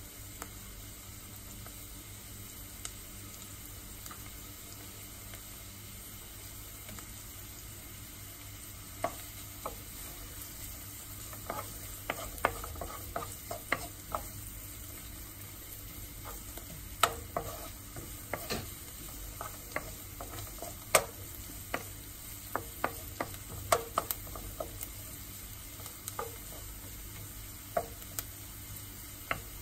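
Chopped onions sizzling quietly in oil in a nonstick wok. From about nine seconds in, a wooden spatula stirs them, with sharp knocks and scrapes against the pan.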